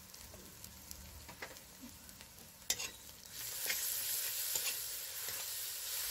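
Chopped onions and ginger-garlic paste frying in oil in a metal karahi, with a metal spatula scraping and tapping the pan. The sizzle grows louder about three seconds in as the paste is stirred through.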